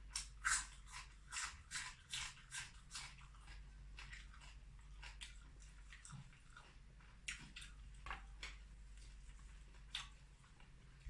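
Close-up chewing and biting: a person eating, with a quick run of wet, crisp chewing strokes over the first three seconds, then only scattered ones.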